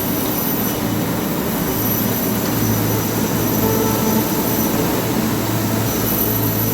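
Machinery running with a loud, steady noise over a constant low hum.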